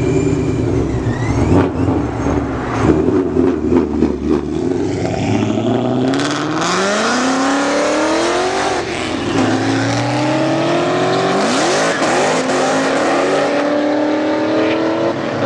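A car's engine rumbling low, then pulling hard under full acceleration about a third of the way in. Its note climbs steadily, falls back at two upshifts, and climbs again toward the end.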